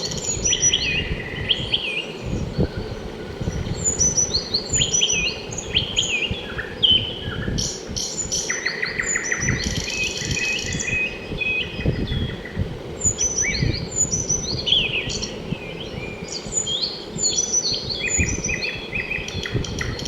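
Several small birds chirping and calling at once: many short, quick, often falling chirps and trills that overlap throughout, over a steady low background noise.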